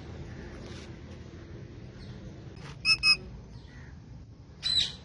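Indian ringneck parakeet calling: two short, sharp, beep-like notes in quick succession about three seconds in, then a single louder, rougher call near the end.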